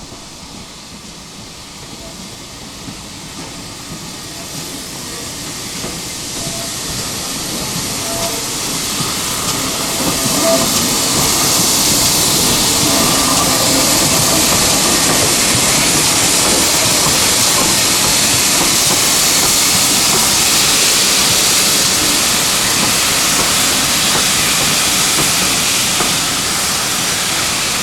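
Steam hiss from a steam locomotive, the GWR Manor class 4-6-0 No. 7802 Bradley Manor. It grows louder over roughly the first twelve seconds, then holds loud and steady.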